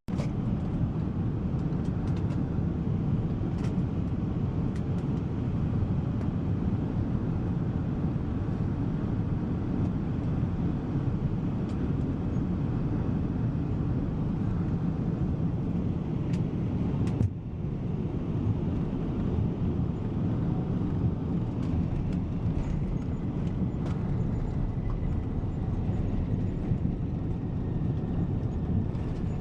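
Steady low cabin rumble of a Boeing 777 airliner: engine and airflow noise heard from inside the cabin, briefly dipping about 17 seconds in.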